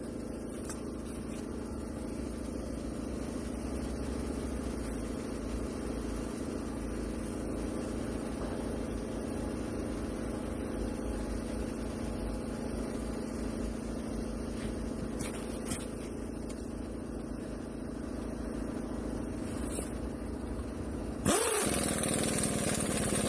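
A motor or engine running steadily with an even hum. Near the end a much louder, harsh mechanical noise cuts in and lasts about three seconds.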